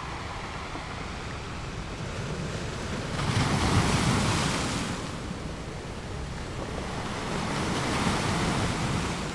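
Ocean waves washing as a steady rush of water, swelling louder about three seconds in and again near the end.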